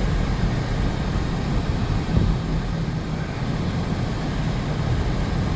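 Steady car noise heard from inside the cabin: a low engine hum under an even rushing haze.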